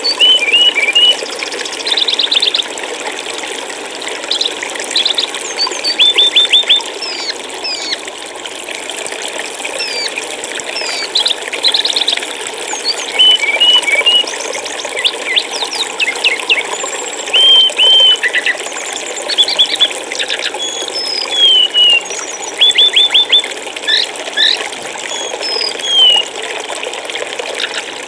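Running water over a steady stream bed, with small songbirds chirping above it every second or two. The calls are short whistled notes, quick runs of four or five notes, and rising or falling slurs, and they stand out louder than the water.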